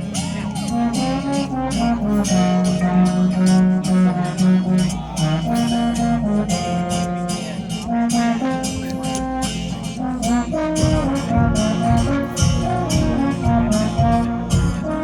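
High school marching band playing its field show: brass sections holding and moving through loud sustained chords over steady percussion strikes. About eleven seconds in, heavy low drum hits join.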